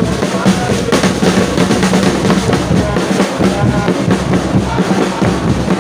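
Football supporters' drums beating continuously in a stadium, with the dense din of the crowd behind them.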